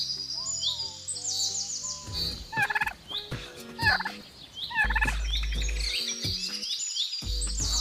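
Birds calling: quick high chirps repeat throughout, and two short, rapid, rattling calls lower in pitch come about two and a half and four seconds in.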